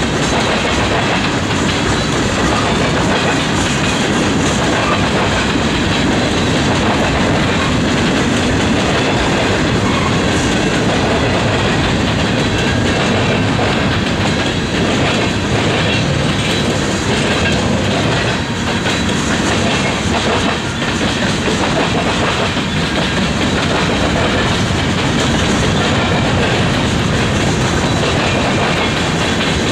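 Freight cars of a BNSF manifest train rolling past: a steady, loud rumble of steel wheels on rail with a repeated clickety-clack as the wheels cross rail joints.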